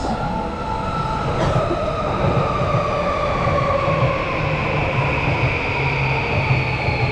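Electric train running, with a steady rumble and a motor whine that falls slowly in pitch, and a single sharp click about a second and a half in.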